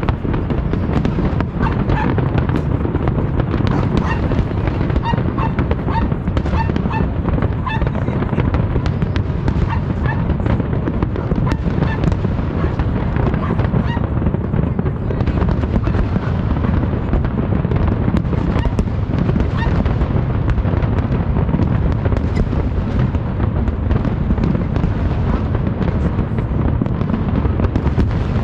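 Fireworks display: a continuous barrage of bangs and crackling from many shells at once, with short pitched notes repeating between about four and eight seconds in.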